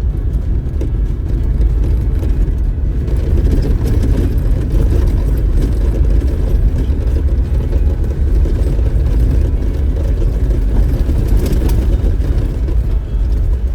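Off-road vehicle driving on a dirt trail, heard as a steady low engine and road rumble that swells a little about three seconds in.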